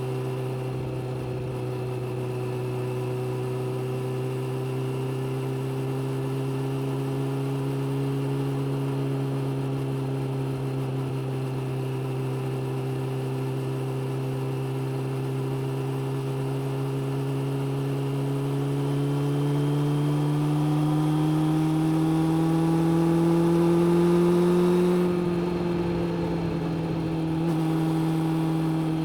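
Suzuki GSX600F's inline-four engine running steadily under way. Its pitch and loudness rise slowly as it gathers speed, then fall back a little about three quarters through before holding steady.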